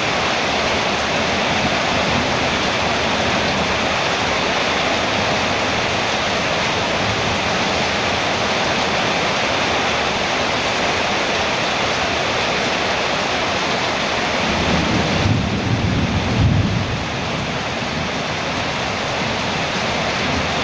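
Heavy rain falling steadily on a metal roof, with a low rumble swelling about fifteen seconds in.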